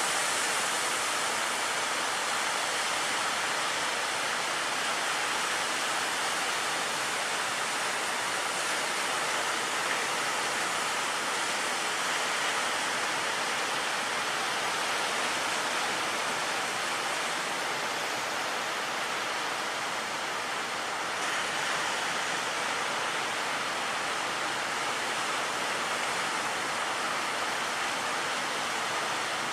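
Steady roar of heavy surf and breaking waves, an even hiss with no distinct strokes.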